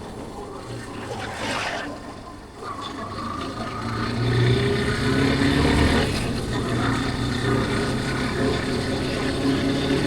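Yamaha Factor 150's single-cylinder engine running as the motorcycle is ridden, with wind noise; the engine picks up again after a brief lull a couple of seconds in.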